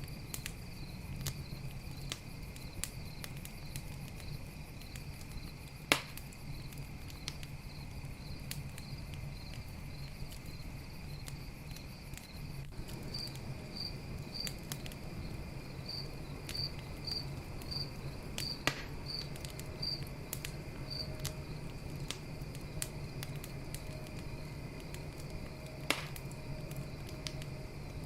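Campfire crackling with scattered sharp pops, the loudest about six seconds in, again near nineteen seconds and near the end, over crickets chirping steadily, with a run of regular high chirps about two a second in the middle.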